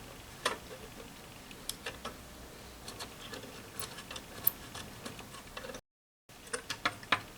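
Scattered light clicks and taps of small parts and tools being handled during reassembly of a vintage tube radio console, irregular and a few per second, with a brief dropout to silence about six seconds in.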